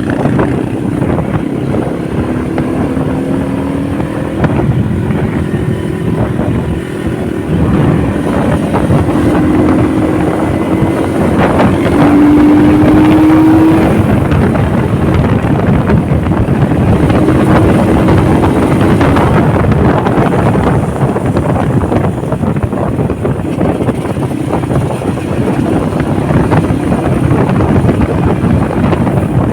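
Honda motorcycle running on the road, its engine note climbing slowly several times as it pulls, under heavy wind rush on the microphone.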